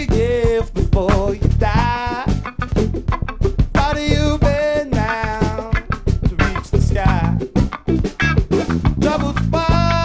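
Live funk band playing an upbeat groove on drum kit and bass guitar, with a melody line held in long notes on top.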